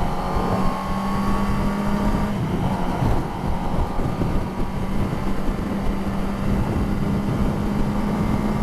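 Kawasaki ZX10R's inline-four engine running at a steady speed, its note dipping slightly a little over two seconds in. Wind rushes over the microphone throughout.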